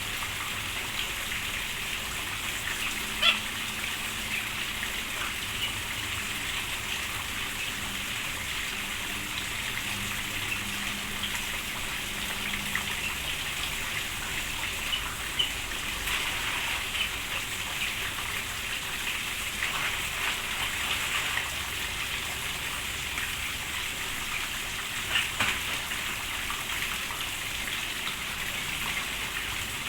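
Steady rain falling, with a few sharper taps of drops standing out now and then.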